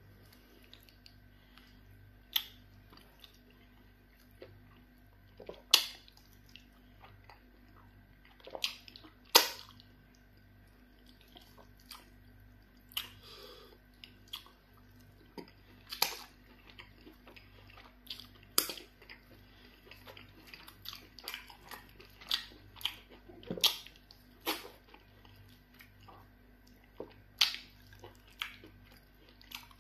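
Close-up chewing and wet mouth smacks of someone eating pounded yam fufu and soup by hand. The smacks come as sharp, irregular clicks about a second or two apart, over a faint steady hum.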